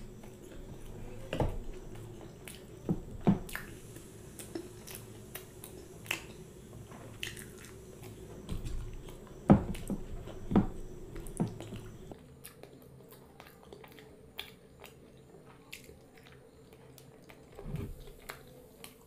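Close-up chewing and wet lip-smacking from someone eating puri dipped in curry by hand, with scattered mouth clicks and small squishes. The smacks thin out after about twelve seconds.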